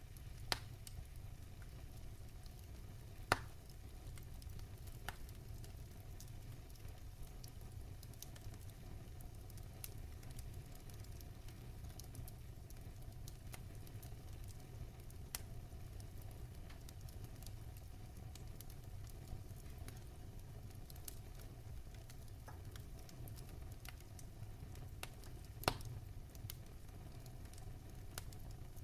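Wood fire burning in a fireplace: a steady low rumble under a faint hiss, with scattered sharp crackles and pops, three of them louder than the rest.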